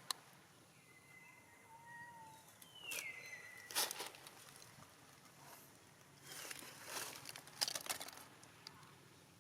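Faint high-pitched squeaks, one sliding down in pitch, among short bursts of rustling and crackling.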